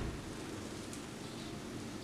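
Steady low background hum with a faint, short, high bird chirp about a second in.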